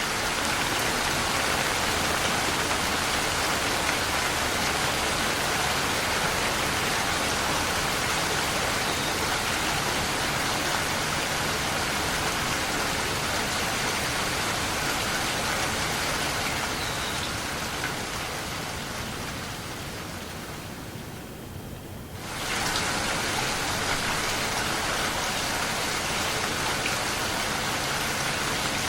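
Steady rain falling and pattering on surfaces. It fades down over several seconds, then cuts back in suddenly at full strength about three-quarters of the way through.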